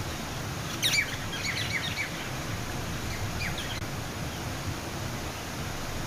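Small birds chirping: a quick run of high chirps about a second in, the loudest sound here, and a few more just after three seconds, over a steady outdoor background rumble.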